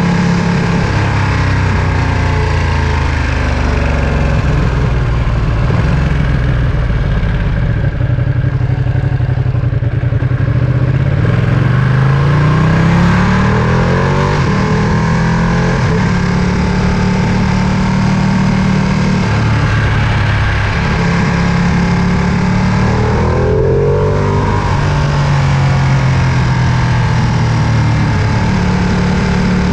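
Ducati Panigale V2's 955 cc twin-cylinder engine running under way, mostly holding steady with the pitch rising as it accelerates about twelve seconds in and again near the end.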